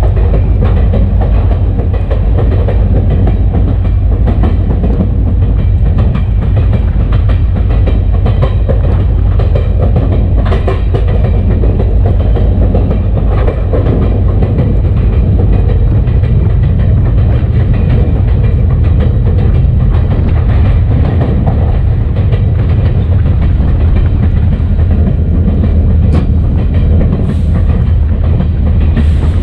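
EMD SD40-2 diesel-electric locomotive rolling down the track, its wheels clattering over the rail and its engine running, heard from a camera clamped outside on the short nose. A steady, loud, heavy low rumble.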